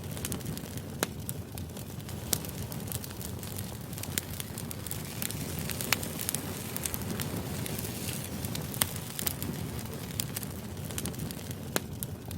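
Firewood burning in a fire pit: a steady low rush of flame with scattered sharp crackles and pops from the logs.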